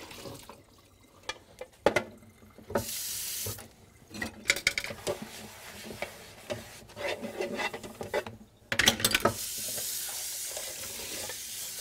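Steamer skillet handled at a sink, with scattered knocks of the pan and a short rush of poured water about three seconds in. A tap then runs steadily from about nine seconds in, rinsing the skillet.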